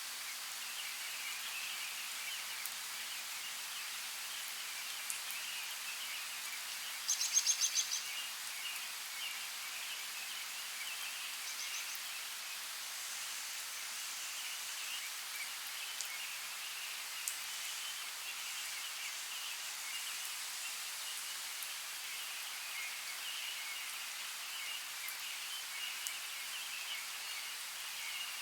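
Forest ambience: a steady hiss of running creek water, with a bird giving a short, rapid trill about seven seconds in and a fainter brief call a few seconds later.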